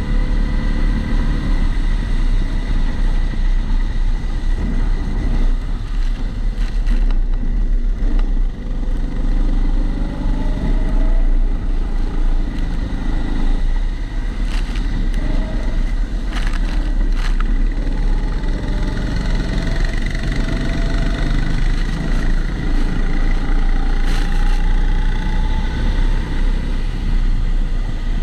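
Rental go-kart engine heard onboard, its pitch climbing several times as it accelerates out of corners and dropping as it backs off. The sound is muffled by the camera's waterproof housing, with a steady high tone running under it.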